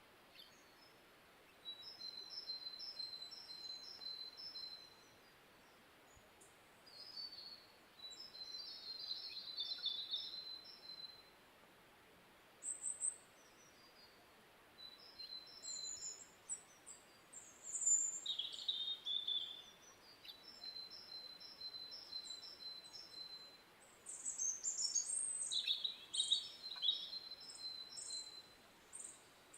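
Songbirds singing: short, high chirping phrases and quick trills from more than one bird come and go, with a few louder calls near the middle and about two-thirds of the way in, over a faint steady background hiss.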